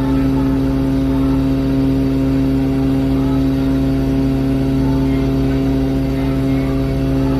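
Passenger ship's diesel engine running at a constant speed with a steady low hum that does not rise or fall.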